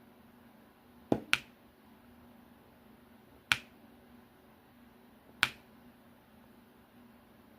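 Diamond painting drills snapping as they are laid onto the canvas: four sharp clicks, two in quick succession about a second in, then single ones spaced about two seconds apart.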